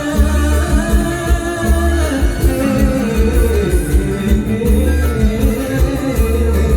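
Live mor lam band music, loud, with a steady heavy bass beat under a wavering melody line.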